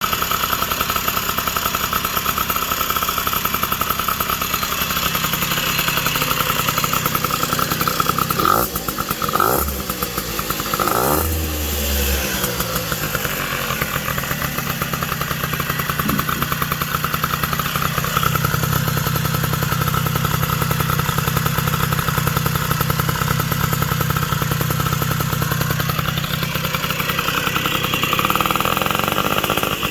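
Puch moped's two-stroke engine, fitted with a 70cc cylinder kit, running on its first start-up. It runs steadily most of the time, and its revs swing down and back up a few times about a third of the way in.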